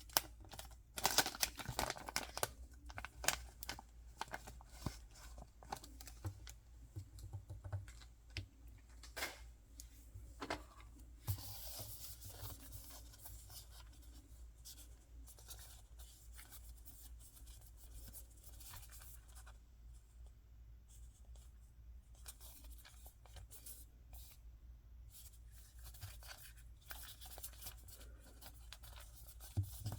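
Hands opening and handling blind-box toy packaging: paper and plastic tearing and rustling in short irregular bursts, with small sharp clicks. The handling is busiest in the first few seconds and again a little before the middle.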